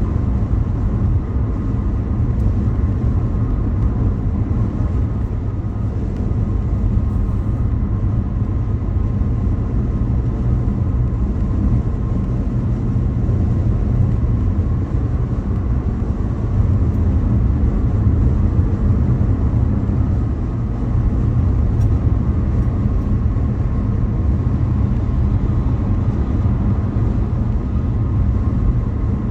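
Steady road noise of a car driving at speed on a highway: an even low rumble of tyres and engine, with a faint steady hum.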